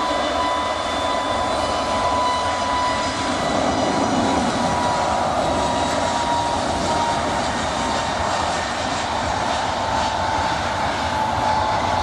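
Airbus A320neo's CFM LEAP-1A turbofans running at high power on departure: a loud, steady jet rush with a whine near 1 kHz that sinks slowly in pitch as the aircraft moves away.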